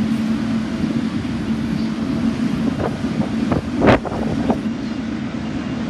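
Wind buffeting the microphone over a steady low engine hum, with a few short knocks about three to four seconds in.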